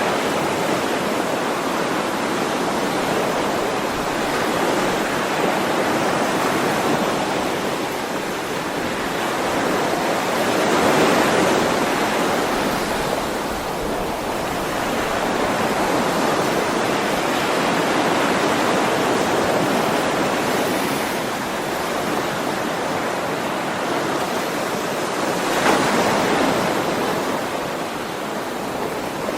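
Ocean waves washing onto a shore: a continuous rush of surf that swells and ebbs slowly, with waves breaking about every several seconds and one stronger break near the end.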